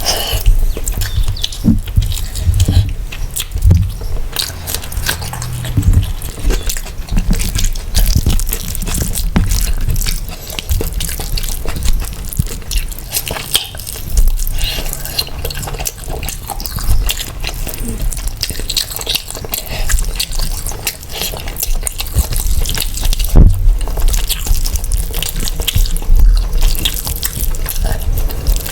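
Close-miked eating sounds: wet chewing and lip smacking of mutton biryani and curry, with many short, sticky clicks throughout.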